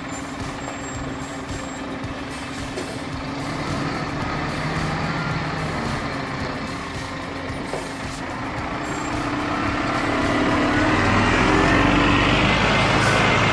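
Heavy truck engine running steadily, getting louder about ten seconds in.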